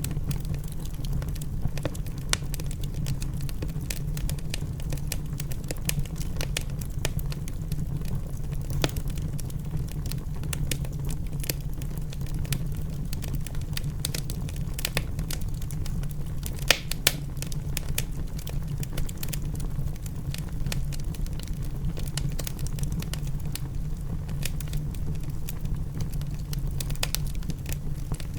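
Wood fire crackling in a fireplace: irregular sharp pops and snaps over a steady low rumble, with rain falling, and one louder pop about 17 seconds in.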